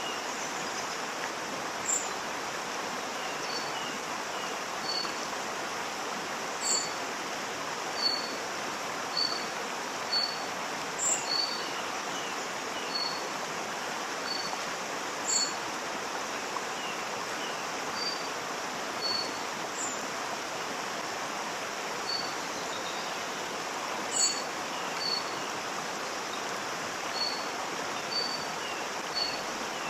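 Waterfall rushing steadily. Short high chirps come about once a second, and a sharper, higher call comes every four seconds or so.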